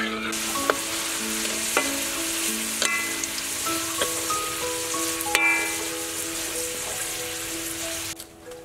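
Small round fruits sizzling in a wok of hot oil, a steady hiss that stops about eight seconds in, with a few sharp clicks of a metal strainer against the wok. Background music plays over it.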